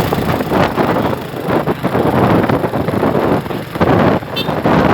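Wind buffeting the microphone in loud, uneven gusts, with a brief high squeak about four and a half seconds in.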